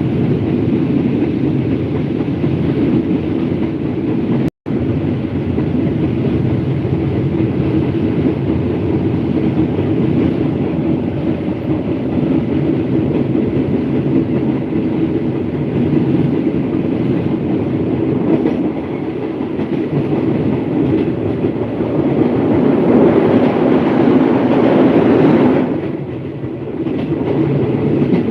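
Moving passenger train running steadily along the track, a continuous rumble heard from on board. The sound cuts out for an instant about four and a half seconds in, swells louder for a few seconds near the end, then drops back.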